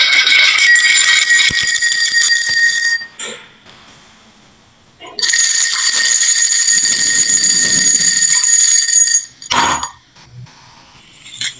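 A stream of glass marbles rolling and clattering down a marble run into toy trucks, a dense ringing rattle. It goes in two long runs with a short lull between them, and ends with a single sharp clack.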